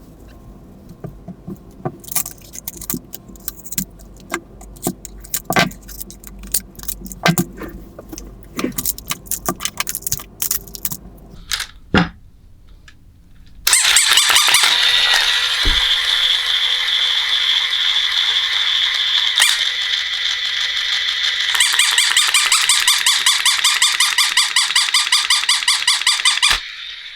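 Small plastic and metal parts of a battery-operated toy poodle clicking and rattling as it is taken apart. About halfway through, a loud, continuous high-pitched sound starts abruptly; for its last few seconds it pulses quickly and evenly, then cuts off just before the end.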